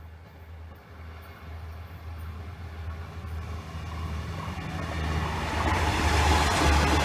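Diesel railcar approaching, its engine drone and running noise growing steadily louder.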